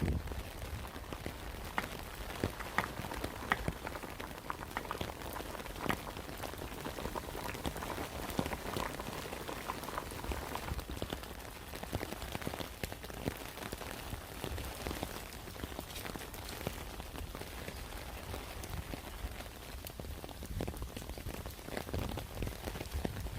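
Heavy monsoon rain pouring down steadily, with many separate sharp drop hits standing out against the steady hiss.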